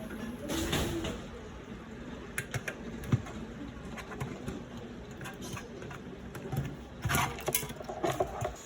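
Scattered light clicks and knocks of objects being handled, the sharpest about three seconds in, with two brief louder stretches of noise near the start and near the end.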